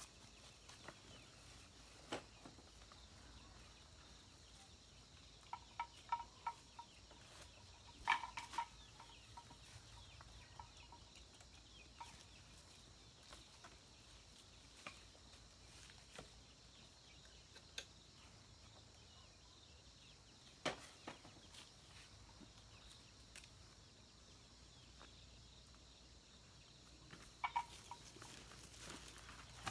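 Chickens clucking: a few short clusters of clucks about six seconds in, around eight to nine seconds in, and again near the end, with scattered light clicks over a quiet background.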